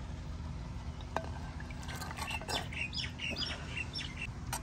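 A bird calling in a run of short, high chirps from about two seconds in, over a steady low rumble, with a single sharp click about a second in.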